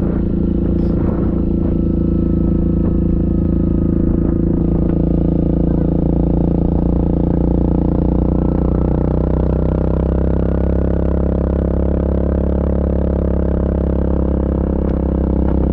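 Yamaha Grizzly ATV's single-cylinder four-stroke engine running steadily while riding.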